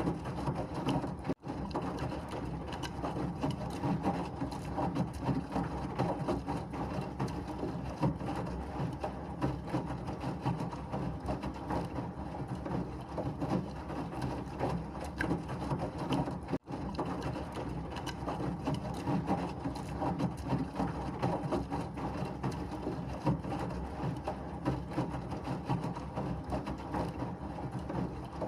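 Washing machine running, its drum turning with a dense, steady clatter and rattle. The sound cuts out for an instant twice, about a second and a half in and again past the middle.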